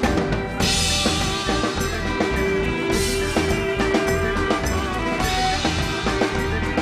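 Band music with drum kit and guitar, an instrumental passage between sung verses: held guitar notes over a steady beat, with cymbal crashes about half a second in, near three seconds, and again near the end.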